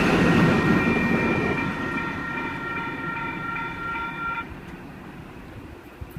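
An XPT express train running past and fading away. A high, steady ringing tone is heard from about a second in and stops sharply about four and a half seconds in.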